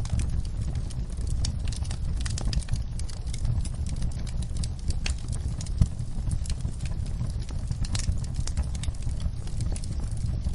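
Wood fire crackling in a fireplace: frequent sharp pops and snaps over a steady low rumble from the flames, with one louder pop a little past halfway.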